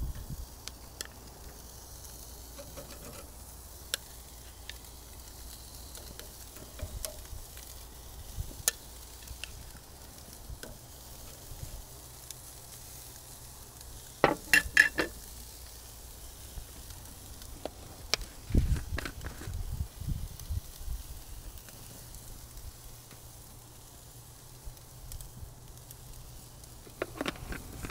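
Burger patties sizzling on a barbecue grill, a steady hiss with scattered small pops. About halfway through comes a quick run of ringing metal clinks, and a few dull knocks follow later and again near the end.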